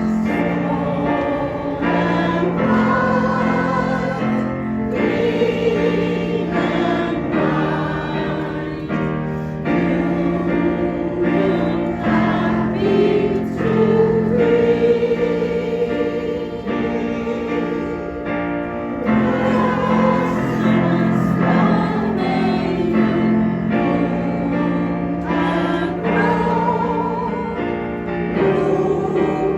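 Amateur choir singing a song in several parts, voices holding long notes.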